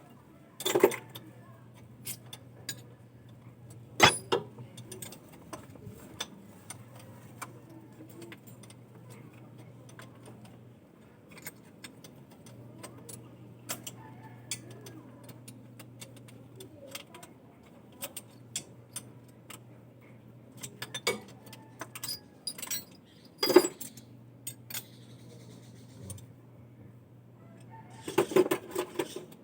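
Irregular metallic clinks and knocks, like tools and metal parts being handled and set down, with the loudest knocks about a second in, at about four seconds, and near the end, over a low hum that cuts in and out.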